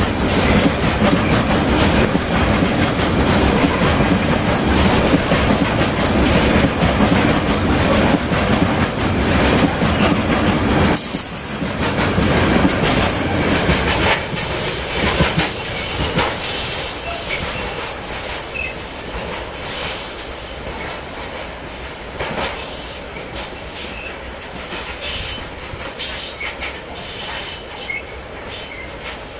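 Freight train rolling past on the rails, with wheels clattering and a high squeal of wheels on the rails from about 14 s in. The noise fades over the last ten seconds as the train draws away.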